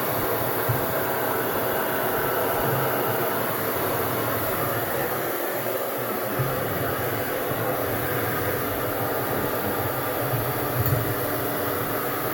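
Handheld hair dryer running steadily, blowing air across wet paint on a canvas.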